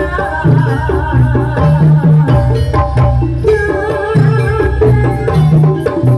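Live jaranan (kuda lumping) dance accompaniment music: steady drumming under a pitched melody, with a bass line moving in held notes.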